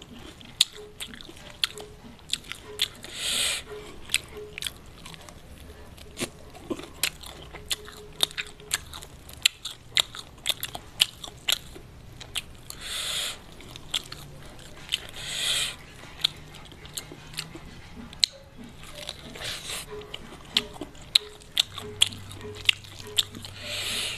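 Close-miked eating of crispy fried chicken: many sharp, separate crunches of the fried batter between wet chewing, with a few short hissing rushes now and then.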